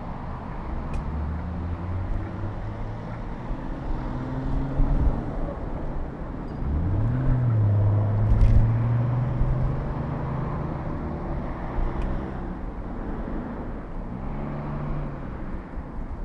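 Car engines running on the street over steady road noise; one speeds up about seven seconds in and runs loudest for a few seconds before fading.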